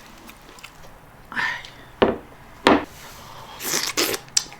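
Knocking and rubbing sounds of a meal at the table, with two sharp loud knocks a little under a second apart near the middle and shorter rustles around them.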